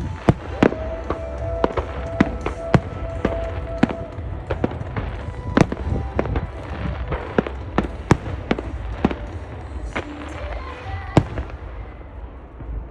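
Fireworks bursting in quick succession, many sharp bangs over a low rumble, with show music playing. The bangs stop near the end and the rumble fades.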